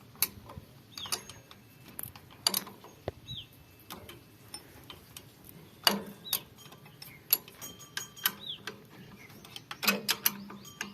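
Scattered sharp metallic clicks and clinks of hand tools working on the tractor, irregular and loudest about six seconds in and near the end, with a few short falling bird chirps between them.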